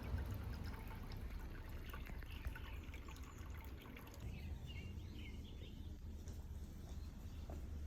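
Faint outdoor ambience: a steady low rumble with a few short bird chirps about five seconds in.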